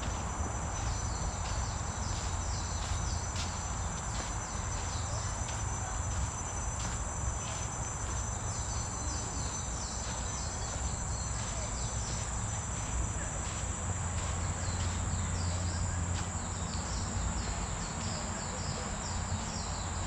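Steady high-pitched insect drone of tropical forest insects such as crickets, one unbroken tone throughout. A low rumble runs underneath.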